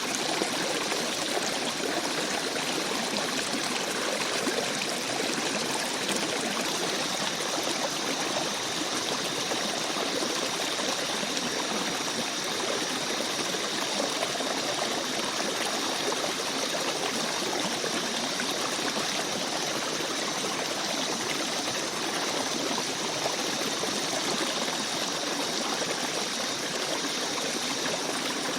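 Small forest stream babbling over stones: a steady rush of flowing water with light trickling.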